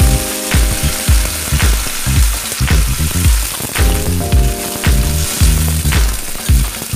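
Celery sizzling as it is stir-fried in a stainless steel wok and turned with a spatula. Background music with a steady beat plays over it and is the loudest part.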